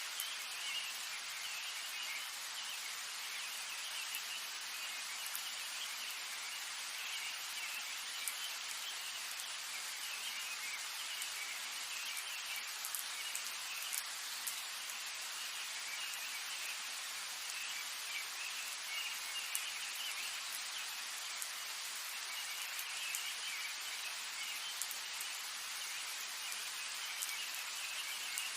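Steady rain falling, with scattered sharp drop ticks, over a high, wavering chorus of animal calls.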